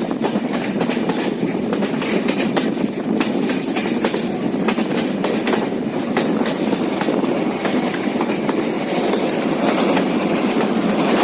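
Passenger train running on rails: a steady rumble of wheels and carriages with many short clicks from the wheels passing over the track, growing slightly louder near the end.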